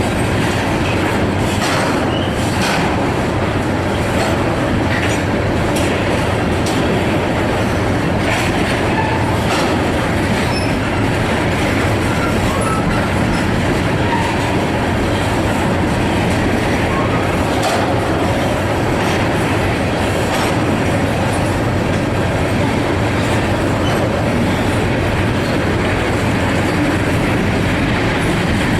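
Freight train cars rolling past with a steady rumble, steel wheels clicking over the rail joints.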